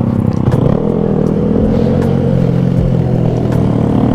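Honda Grom motorcycle's small single-cylinder engine running under way at fairly steady revs, starting to rev up at the very end.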